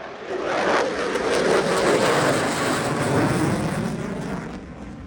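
Lockheed Martin F-22 Raptor jet fighter passing in a display flight: a loud jet roar that swells over the first second or two and fades away near the end.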